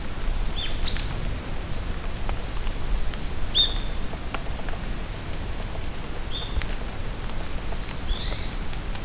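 Rain falling steadily in a forest, with scattered drops ticking, while songbirds call over it: several short sweeping calls and two bursts of high twittering chatter, one about two and a half seconds in and one near the end.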